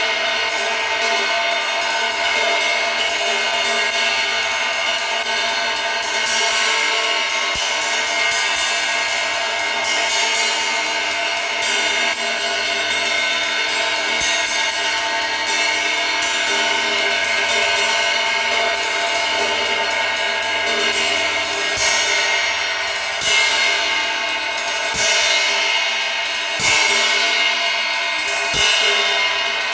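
Steady, continuous hiss-like noise from a track sold as pink noise, with a few faint steady tones running through it and very little deep bass.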